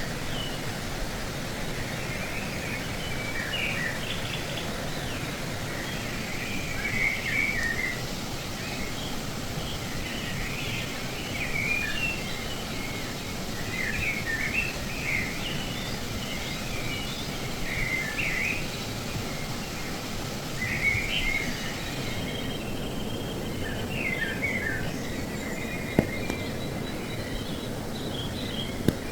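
Steady rush of a flowing stream, with small birds chirping in short repeated phrases throughout. Two sharp clicks near the end.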